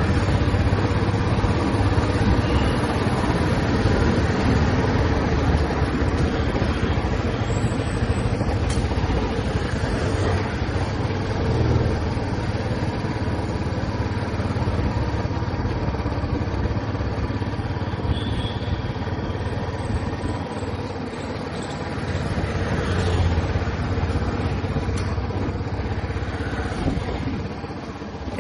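Royal Enfield Classic 350's single-cylinder engine and exhaust running steadily while riding in traffic, with the loudness easing a little near the end.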